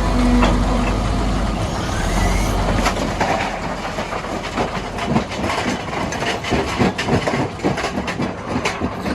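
Rocks clattering and knocking against each other and against heavy steel machinery: many irregular sharp impacts. A steady heavy engine hum fades out in the first two seconds or so.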